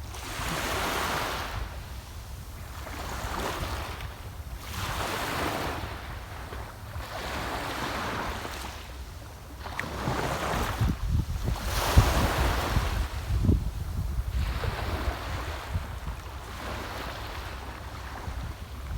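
Small sea waves breaking and washing up the shore in repeated surges every two to three seconds. The largest surge comes a little past halfway. Wind rumbles on the microphone throughout.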